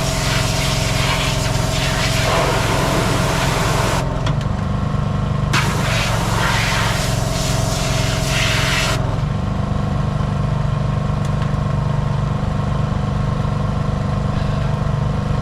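An engine running steadily with a loud hiss over it. The hiss cuts out about four seconds in, comes back a second and a half later, and stops again around nine seconds, and the engine note shifts as it stops.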